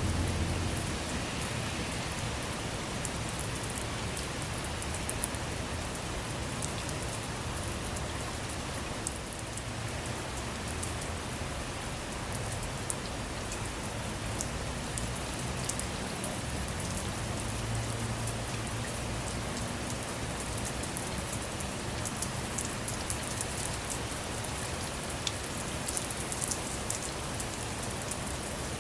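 Steady rain falling on a car, with many small drop taps over an even hiss. A low rumble of thunder dies away in the first second.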